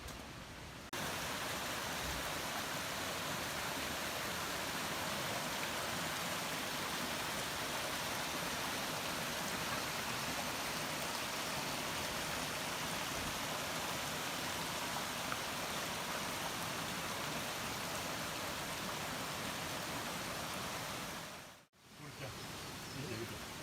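Mountain stream rushing steadily, an even wash of water noise that starts abruptly about a second in and fades out near the end.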